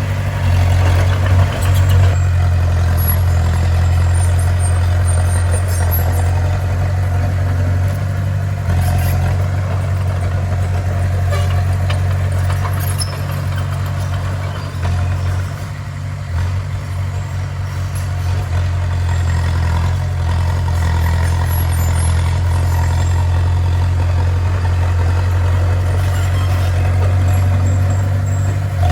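Heavy diesel engine of a bulldozer running steadily with a strong low hum, dipping briefly in level about halfway through.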